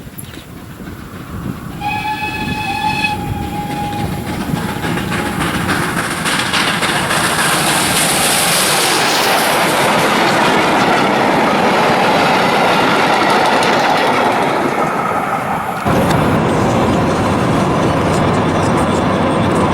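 A steam locomotive whistle sounds for about two seconds. The train's running noise then builds into a loud rushing clatter as it approaches and passes, with a sudden change in the sound near the end.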